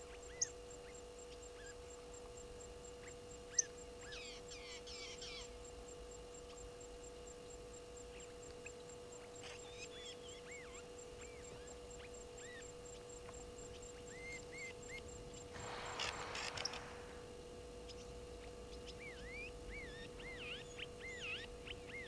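Wild birds calling in the bush: scattered short whistled chirps and notes that rise and fall, from several birds, over a steady hum. Two sharp clicks come in the first few seconds, and a brief harsher, noisier burst comes about two-thirds through.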